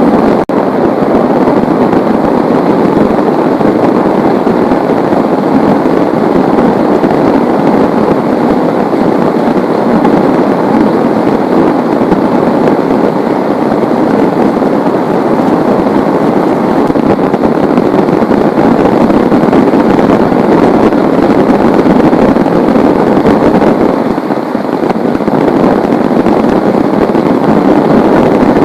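Heavy rain falling in a steady, loud downpour, dipping slightly for a moment about three-quarters of the way through.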